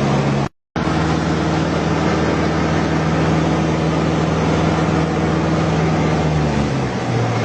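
Steady vehicle engine drone with a low hum over broad rushing noise, cut off by a brief silent gap about half a second in; the hum drops in pitch near the end.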